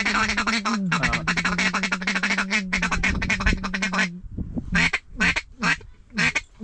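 Mallard duck call blown in a rapid feeding chatter for about four seconds, then five short single quacks, used to coax circling ducks back in.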